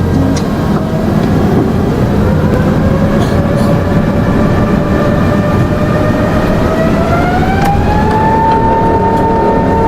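Jet airliner engines spooling up for takeoff: a heavy rumble under a rising whine that climbs steadily for several seconds and then levels off at full power.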